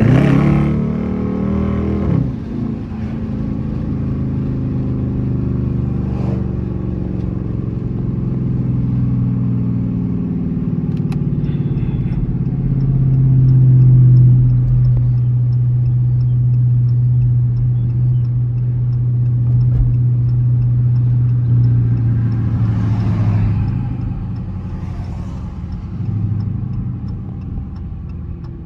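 Dodge Charger R/T's V8 engine heard from inside the car: a hard rev right at the start that falls away within about two seconds, then a steady low drone at cruising speed that swells around the middle and eases off near the end. Faint rapid ticking sits over it in the second half.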